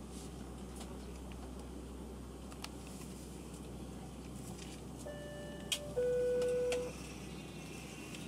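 Steady hum of an Airbus A319 cabin during pushback, with a few faint clicks. About five seconds in come two short steady electronic tones, a higher one then a lower, louder one.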